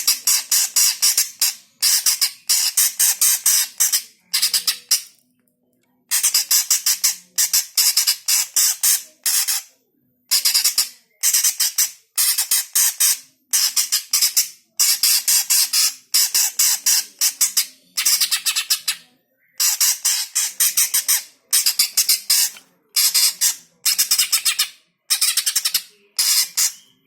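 Cucak hijau (green leafbird) giving a rapid, rattling chatter in repeated bursts of one to two seconds with short pauses between. This is the territorial fighting call that keepers play to provoke other birds.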